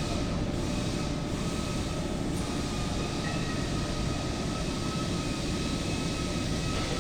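A 38-ton excavator's diesel engine running steadily, a dense rumble with a faint thin whine above it.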